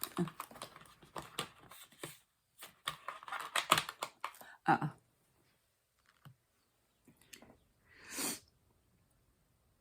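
Rapid small plastic clicks and rattles of diamond-painting drills and the applicator pen on the canvas and tray, in two busy spells in the first half. A short hiss about eight seconds in.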